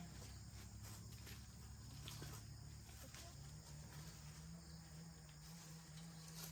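Faint insects, crickets, chirping steadily, over a low steady hum with a few soft clicks.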